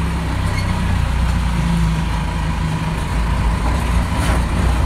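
Step van's Cummins diesel engine running steadily with a low drone.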